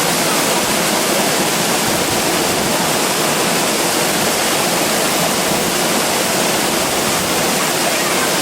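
Loud, steady rush of the Stewart Falls waterfall: falling water hissing without a break.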